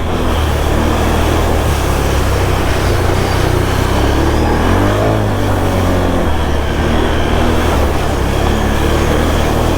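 Can-Am Outlander ATV engine running hard and steadily while the machine is stuck in floodwater, its pitch dipping and rising slightly about halfway through, with a steady rushing noise over it.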